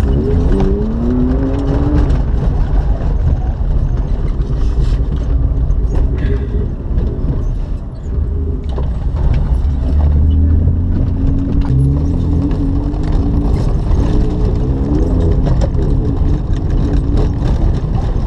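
BMW E36 engine heard from inside the cabin, pulling hard with its pitch climbing, easing off briefly around eight seconds in, then accelerating again. Scattered knocks and clicks from the loose gravel surface run through it.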